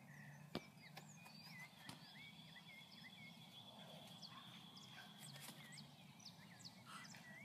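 Faint outdoor quiet with birds chirping over and over in short, hooked chirps, and a thin steady high tone through the middle. A couple of soft clicks come in the first two seconds.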